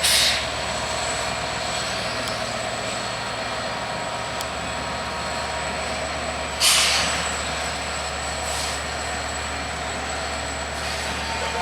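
Diesel locomotive idling with a steady drone, while its air brake system vents in two short, sharp hisses: one at the start and one about seven seconds later.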